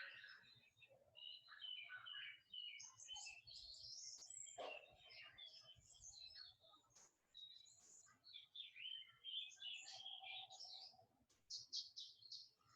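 Faint birdsong: many quick high chirps and twitters going on steadily.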